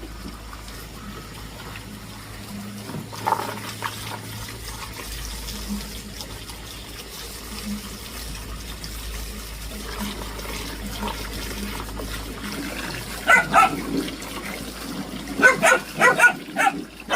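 A dog barking in short runs of quick barks, first about two-thirds of the way in and again near the end, over a steady background of running water.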